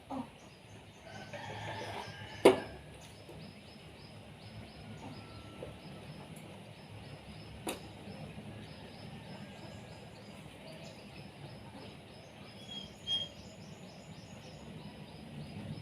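Chickens clucking quietly in a coop, with two sharp knocks, the louder about two and a half seconds in and another near eight seconds.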